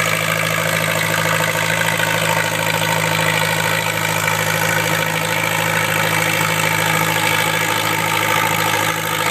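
Tractor engine idling steadily at an even pitch, with no revving.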